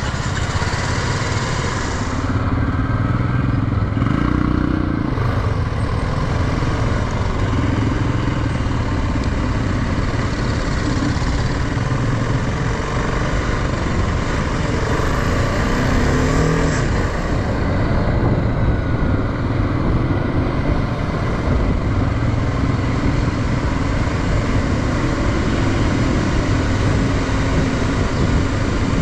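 Motorcycle engine running on the move, under a steady rush of wind and road noise, its note shifting a little in pitch now and then.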